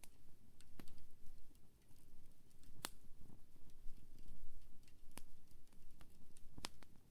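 Wood campfire crackling, with scattered sharp pops from the burning wood; four of the pops are loud, spaced irregularly, over a steady low rumble.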